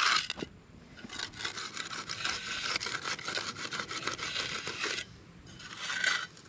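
A hand concrete edger scraping along the edge of a freshly poured slab in repeated back-and-forth strokes, rounding the corner. The scraping stops about five seconds in.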